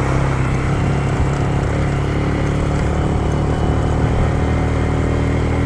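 Motorcycle engine running at a steady pace while riding, with a steady rush of road and wind noise.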